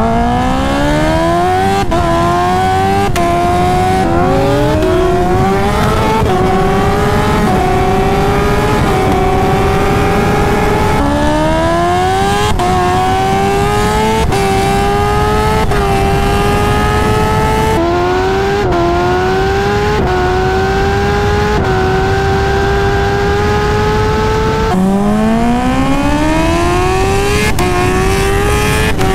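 Supercharged inline-four of a Kawasaki Ninja H2 at full throttle, its pitch climbing through the gears with quick upshifts, a second or two apart in the low gears and longer in the higher ones. Several flat-out pulls follow one another, each new run starting abruptly.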